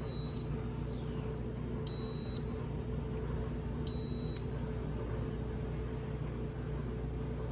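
Refrigerator humming steadily after being plugged in, with three short high electronic beeps about two seconds apart in the first half, typical of a warm-temperature alarm.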